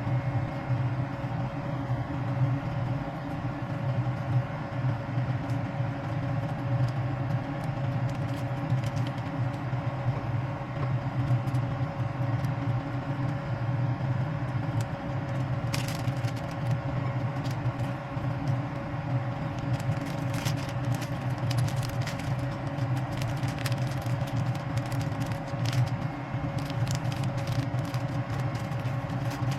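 Steady low rumble and hum of a moving vehicle, with scattered light clicks and rattles that grow more frequent in the second half.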